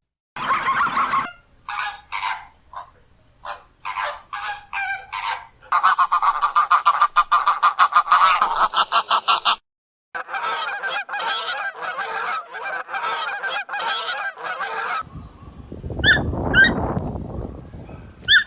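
Geese honking, with repeated calls that run into fast strings of honks. About fifteen seconds in, the honking gives way to a lower rustling noise with a few short, high squeaks.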